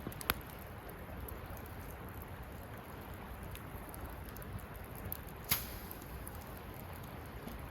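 Wood campfire burning with a steady crackle, with sharp pops of the wood just after the start and a louder one about five and a half seconds in.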